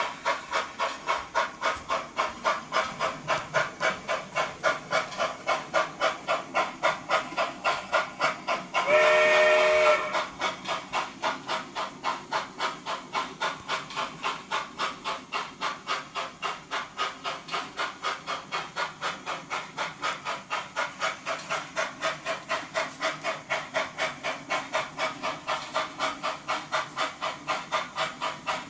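Model consolidation steam locomotive's sound unit chuffing steadily at about three beats a second, with its whistle blown once, a chord of several tones lasting about a second, about nine seconds in.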